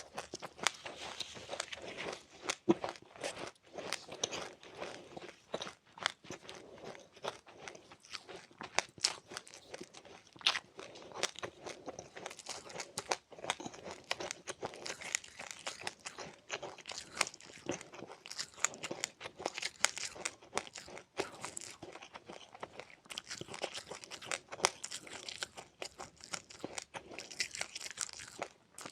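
A person chewing crunchy seeds with passionfruit: a dense, irregular run of sharp crunches.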